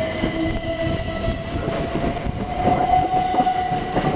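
Electric multiple-unit train running through the station. Its motor whine holds one note that rises slowly in pitch, with wheels clicking over the rail joints.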